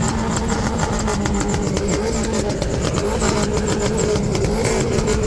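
Engines of cars running close by, a loud steady engine noise with rapid pulsing.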